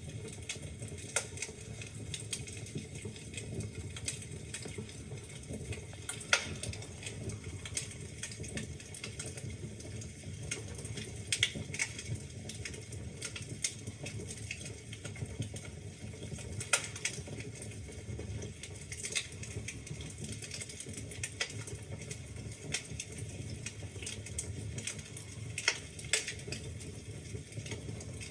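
Wood fire burning in a fireplace: a steady low rumble with irregular sharp crackles and pops from the logs, a few louder snaps scattered through.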